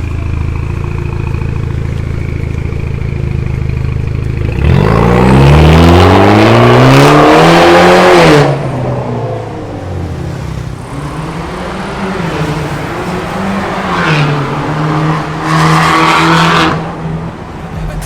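BMW 316i four-cylinder engine running through a new full stainless-steel exhaust with a custom stainless downpipe. It idles steadily, then about four and a half seconds in it is revved up and held for a few seconds before the throttle is let go suddenly. Two shorter revs follow, the last one near the end.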